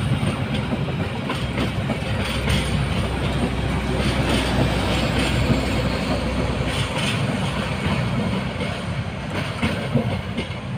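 Train passing close by at a level crossing: steady rolling rumble with repeated clacks of wheels over rail joints.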